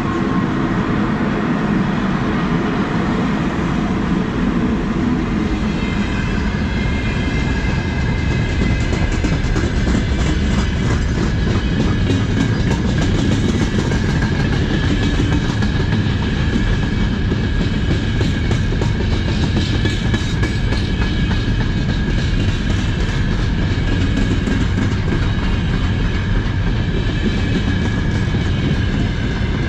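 A long freight train rolling past close by behind an electric locomotive: a steady heavy rumble of hopper and gondola wagons, with wheels clacking rapidly over the rail joints. A steady high-pitched whine joins in from about six seconds in.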